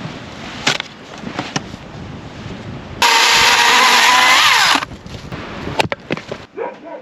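A few sharp knocks, then a small engine running at high speed for a couple of seconds, starting and stopping abruptly, its pitch dropping just before it cuts off. A few more knocks follow.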